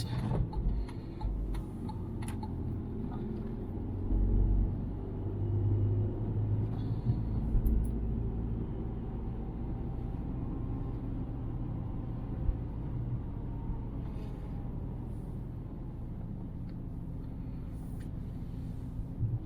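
Car running at low speed, heard from inside the cabin as a steady low rumble of engine and tyres, with a few louder bumps and knocks partway through.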